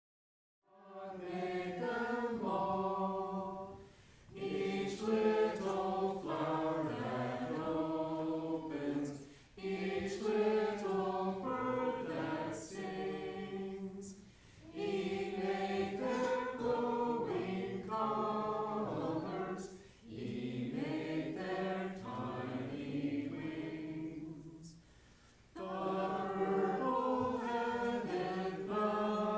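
Church congregation singing a hymn in several voice parts. The singing starts about a second in and runs in lines of four to five seconds, with short breath pauses between them.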